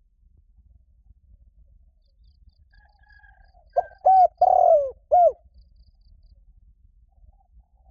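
Spotted dove cooing: one phrase of several short coos about four seconds in, with a long falling note near its end and a short closing coo. Faint high chirps of small birds come and go behind it.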